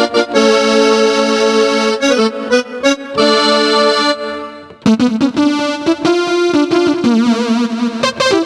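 Electronic keyboard playing a tune in accordion- and piano-like voices. Held chords give way to a short break a little past the middle, followed by held, wavering notes.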